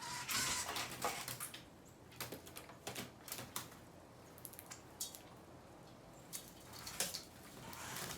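Small birds feeding: irregular pecking taps and clicks, with a brief flurry of wingbeats in the first second and a softer rustle near the end.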